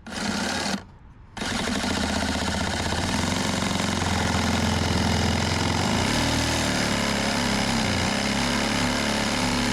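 Reciprocating saw running as its blade is rotated down at a low angle to plunge-cut into wood. It stops briefly about a second in, then runs steadily.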